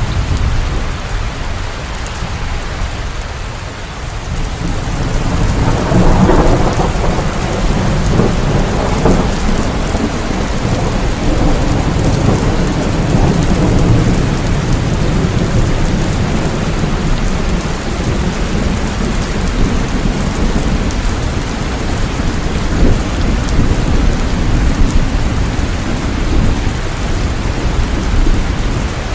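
Steady heavy rain with thunder. A low rumble swells about six seconds in and rolls on under the rain.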